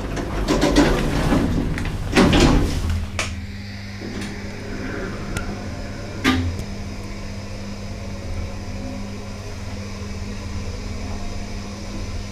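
A lift in operation: clattering and knocking over the first three seconds, with the loudest knock a little after two seconds, then a steady low hum of the lift's machinery while the car travels, broken once by a sharp click about six seconds in.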